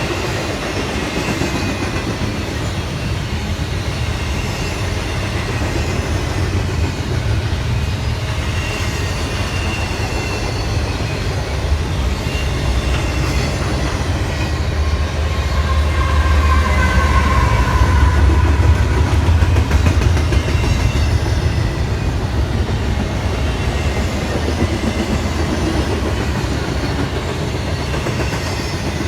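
Railroad train rolling past at trackside: a steady low rumble and the clatter of wheels over rail joints, swelling a little around the middle, with a faint high wheel squeal.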